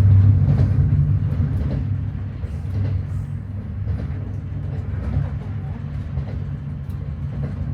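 Steady low rumble of a Kenyan SGR passenger train running on the rails, heard from inside the carriage, with faint scattered clicks.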